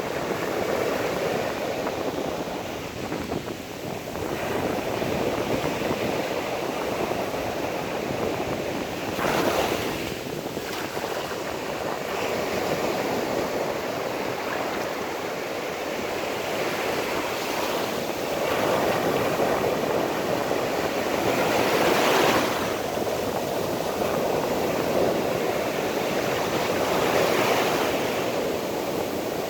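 Sea waves washing onto the shore: a steady surf hiss that swells with louder breakers about a third of the way in, and again past the two-thirds mark and near the end.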